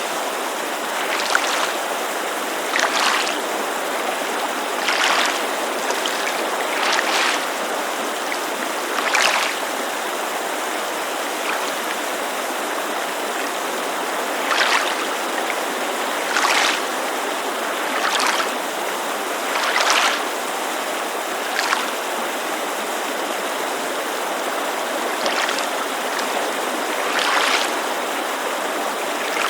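Small waves lapping against a lakeshore in short splashes about every two seconds, over the steady rush of a mountain creek.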